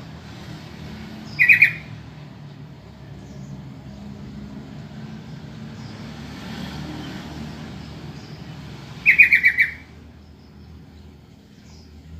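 Yellow-vented bulbul (trucukan) giving two short bursts of rapid chattering call notes, a brief one early and a louder run of about five notes near the end. A low steady rumble runs underneath.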